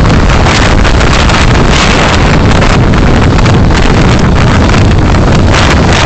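Loud, steady rush of wind and road noise from a moving car, picked up by a dashcam microphone.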